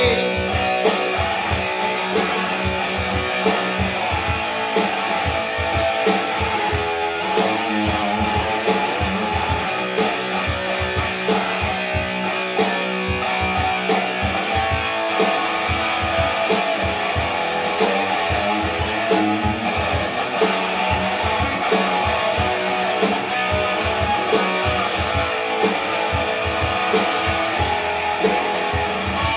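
Rock band playing an instrumental passage: electric guitar over bass and a steady drum beat.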